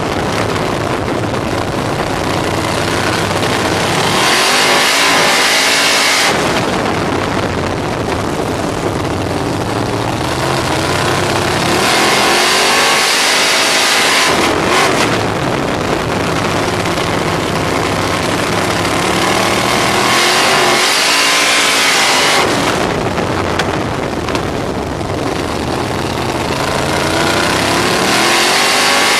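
On-board sound of a 305 cubic-inch V8 sprint car engine at racing speed. The revs drop and climb back up about every eight seconds as the car goes around the track.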